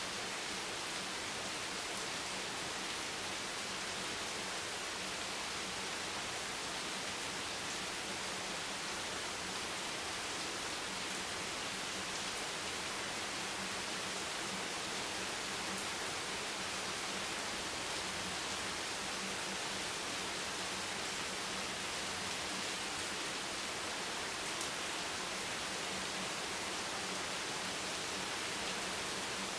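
Steady rain, an even hiss that holds constant throughout.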